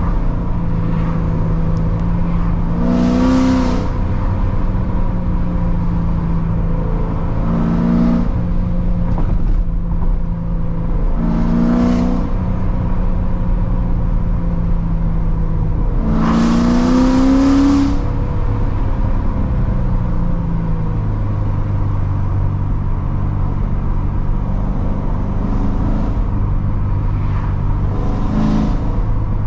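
Supercharged 6.2-litre LT4 V8 of a 2016 Corvette Z06 with long-tube headers, X-pipe and straight pipes, cruising with a steady drone broken by short bursts of throttle: about five brief rises in pitch, the longest and loudest about sixteen seconds in. After about twenty seconds the engine note settles lower.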